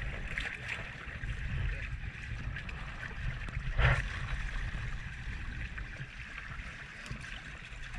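Water sloshing and lapping around a small sailboat, a steady churning noise that swells briefly about four seconds in.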